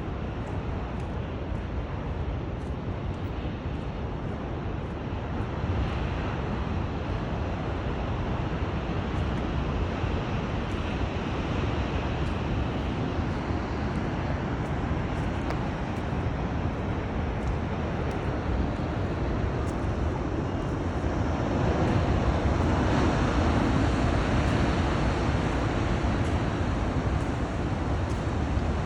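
Steady ocean surf washing below the cliffs, mixed with wind on the microphone; the rush swells louder about twenty seconds in.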